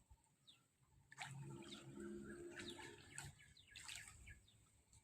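Faint birdsong: short, high, falling chirps repeated every second or so from about a second in. A faint low hum sounds under them in the middle.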